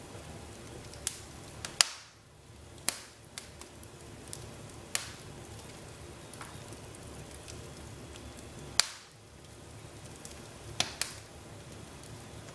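Wood fire crackling in a fireplace: a steady low hiss with irregular sharp pops, the loudest about two seconds and nine seconds in.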